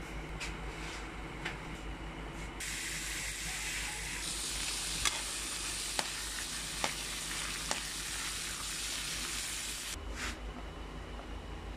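Hot oil sizzling as split lentils fry in a steel pan, with a few sharp clicks of a slotted metal spoon stirring them. The sizzle starts suddenly about two and a half seconds in and stops about ten seconds in.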